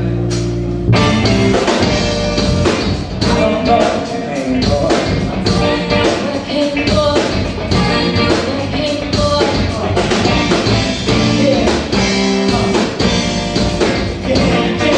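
Live rock band playing, with drum kit, bass and guitar and a regular drum beat.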